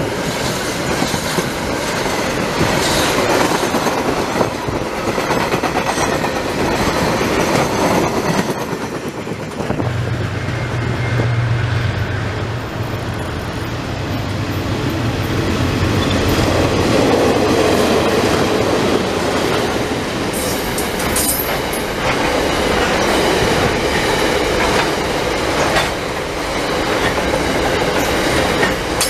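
A freight train's wagons rolling past at speed, wheels clattering over the rail joints. About a third of the way in it gives way to a second freight train, led by locomotives DXC 5172 and 5327, approaching with a low steady engine drone. Its hopper wagons then rattle past close by.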